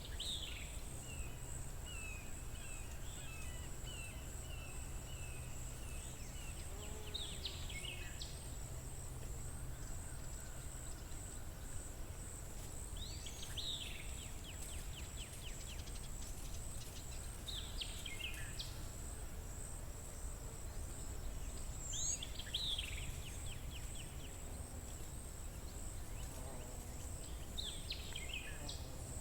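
Outdoor spring ambience: a songbird repeats a short song every few seconds, each a quick falling phrase that ends in a trill, while a run of repeated notes sounds in the first several seconds. Under it runs a steady, very high pulsing buzz and a low rumble.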